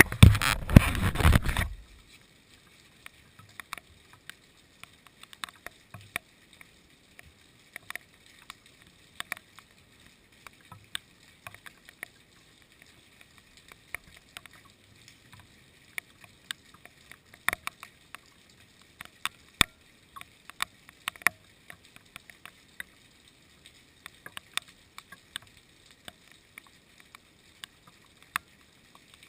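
Rain outside: a faint steady hiss with single drops ticking irregularly, a few louder than the rest. A loud rush of noise fills the first second or two.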